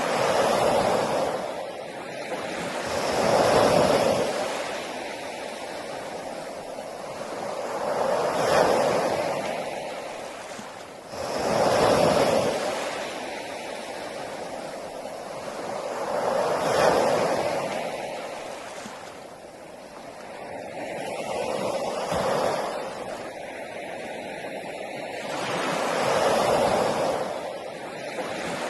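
Ocean waves breaking on a beach, each wave swelling to a rushing crash and then washing back, about every four to five seconds.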